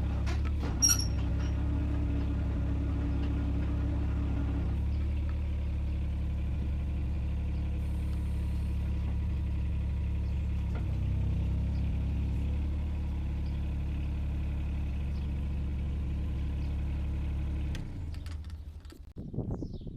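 Takeuchi mini excavator's diesel engine running steadily, with a sharp click about a second in; the engine stops near the end, leaving a few light knocks.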